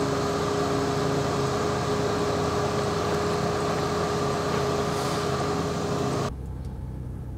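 Minivan engine idling with a steady hum, dropping suddenly to a quieter hum about six seconds in.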